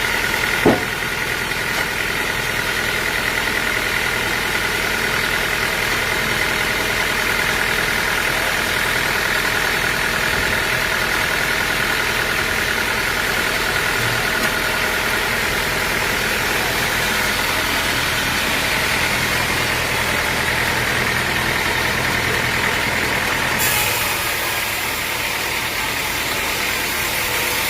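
Sawmill machinery running steadily: a constant engine-like hum with a steady whine over it. There is one sharp knock under a second in, and about four seconds before the end the sound changes as a high hiss comes in.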